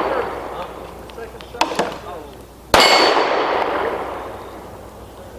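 Pistol fire on steel targets: a sharp crack with a struck steel plate ringing and slowly dying away about three seconds in, and a couple of fainter clanks about a second and a half in. The ring of an earlier hit fades at the start.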